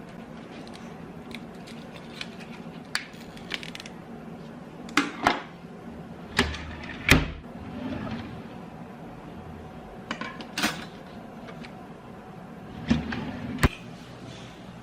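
Hard household objects being handled and set down: a scattered series of sharp knocks and clinks, the loudest about seven seconds in, over a steady low hum.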